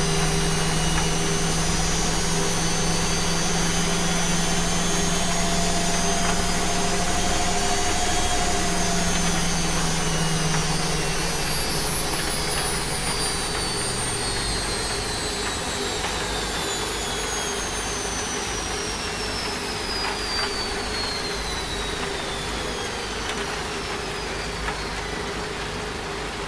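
Washing machine at the end of a spin cycle: a steady motor hum cuts out about halfway through, and a high whine then falls steadily in pitch as the drum slows.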